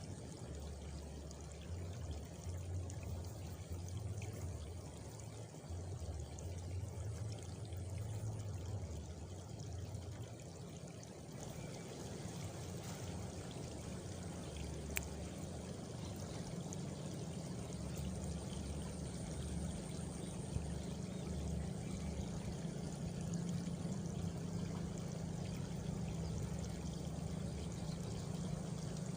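Running water pouring and trickling steadily, with a low, uneven rumble under the splashing.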